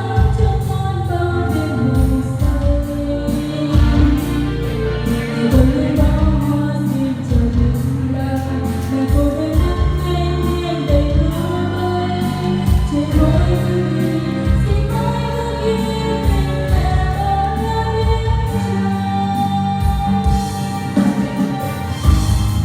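A voice singing a song over electronic keyboard accompaniment with a steady beat.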